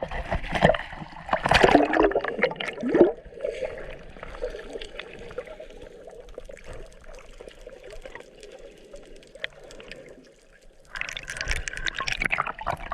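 Water splashing and gurgling, louder in the first three seconds and again near the end, with a quieter steady wash between.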